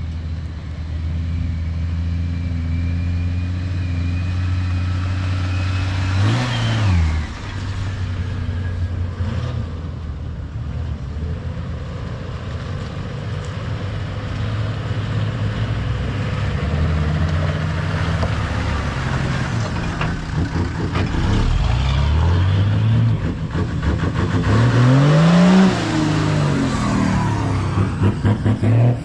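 Engines of several four-wheel drives running as a convoy crawls up a dirt track. The engine pitch rises and falls a few times with the throttle, and it grows louder towards the end as the lead vehicle comes closer.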